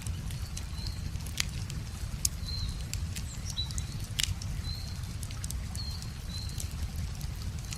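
Wood fire crackling with scattered sharp pops over a steady low rumble, while a bird repeats a short high chirp about once a second.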